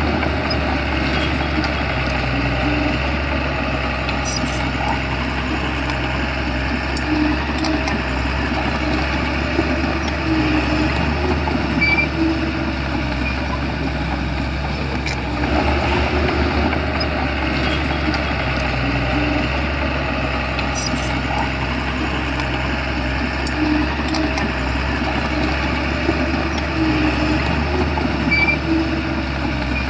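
Bulldozer's diesel engine running steadily under load, with a constant low rumble and occasional faint clicks.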